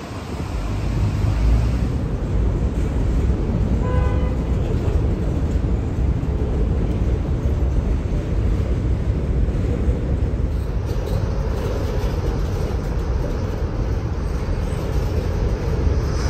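Heavy rain falling steadily over a low rumble of passing traffic, with one short vehicle horn toot about four seconds in.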